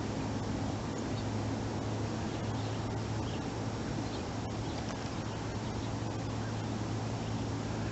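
Outdoor ambience: a steady low hum under an even background hiss, with a few faint, short bird chirps.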